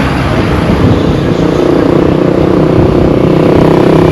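A motor vehicle's engine and road noise running steadily, a loud low rumble with a steady drone.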